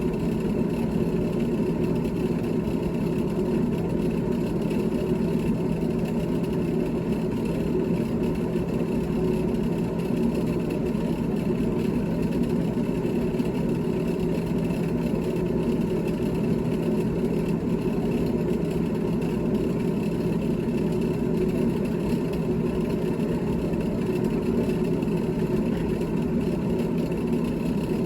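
GE GTH18XCTZRBB refrigerator running with a steady hum made of several constant tones, loudest low down with a fainter high whine above, holding even throughout.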